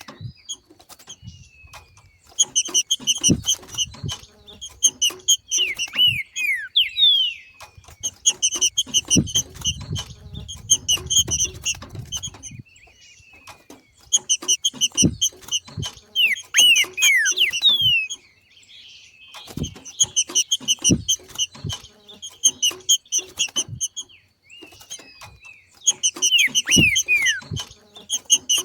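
Green-winged saltator (trinca-ferro) giving its 'macheado' call: bouts of rapid, evenly pulsed chattering notes with a few descending slurred notes, about five bouts each lasting some four seconds with short pauses between. This is the breeding-condition call used to stir males into song. Low thumps sound throughout.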